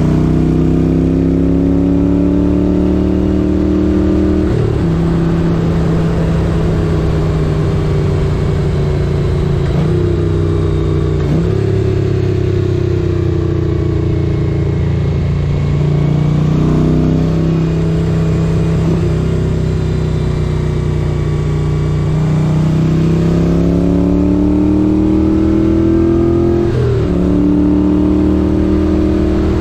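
1978 Moto Guzzi 850 Le Mans's air-cooled V-twin engine pulling on the road, its pitch climbing under throttle and falling off, with several sudden drops in pitch at gear changes, the last after a long climb near the end.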